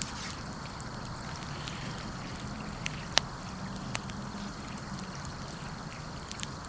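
Wood fire burning with a steady hiss and rumble, broken by a few sharp pops, the loudest about three seconds in.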